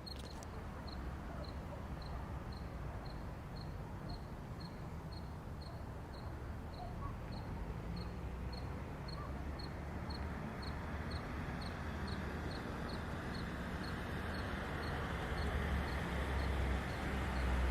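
A cricket chirping steadily at about two to three chirps a second, over a low rumble of traffic that grows louder near the end.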